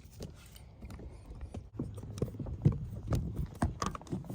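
Irregular small clicks and knocks of the two screws that hold the door handle assembly being fitted and driven in, with one sharper knock about two and a half seconds in.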